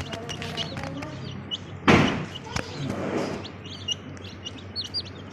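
Baby chicks peeping, short high chirps repeating rapidly through the second half. A loud thump about two seconds in.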